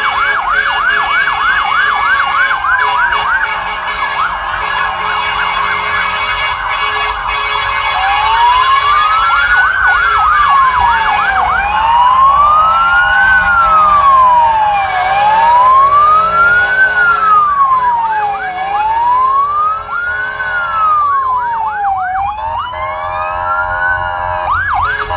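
Several fire engine sirens sounding at once: a fast yelp warbling alongside a slow wail that rises and falls every three to four seconds.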